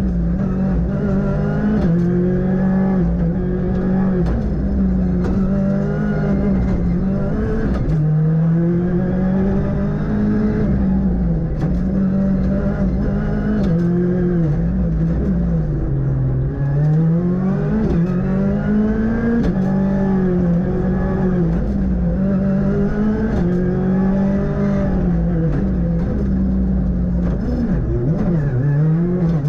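Ford Fiesta R5 rally car's turbocharged engine heard from on board at full stage pace, its pitch climbing through each gear and dropping sharply at the shifts and braking points, with deeper dips about a third and half of the way in and near the end.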